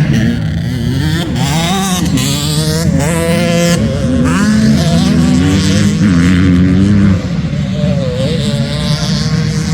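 Several motocross bike engines revving, their pitch rising and falling with the throttle.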